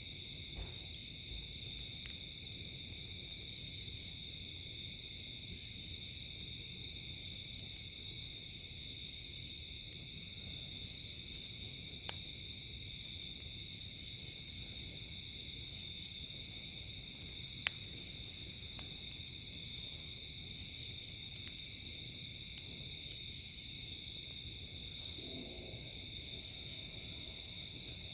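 Steady night chorus of crickets and other insects, with a very high buzzing insect call repeating about every five to six seconds. A few sharp pops from the crackling campfire, the loudest about two-thirds of the way in.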